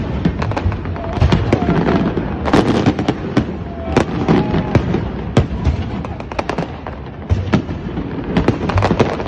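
Fireworks display, with many sharp bangs and crackles of bursting shells coming several a second over a continuous low rumble.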